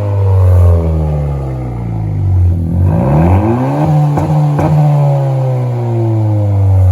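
Honda car engine with its mufflers removed, revving: the revs drop, are blipped up sharply about three seconds in, then fall away slowly, with two sharp pops as they come down. Muffler-delete exhaust note with only the resonator left in the system.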